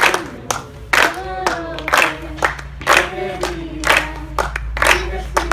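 A group singing a hymn together while clapping their hands in a steady beat, about two claps a second.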